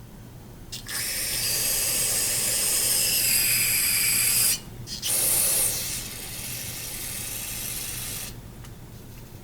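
Aerosol spray can hissing as a carburetor Venturi is sprayed clean: one long burst of about three and a half seconds, a brief pause, then a second burst that starts strong and tapers off.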